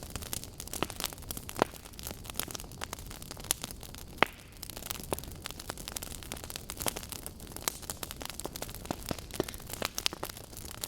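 Burning wood logs crackling: irregular sharp pops and snaps over a steady low rumble of the flames, with one louder pop about four seconds in.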